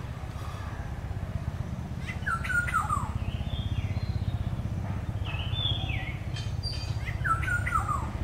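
Black-hooded oriole calling: several short whistled calls that glide downward in pitch, a few seconds apart, over a steady low hum.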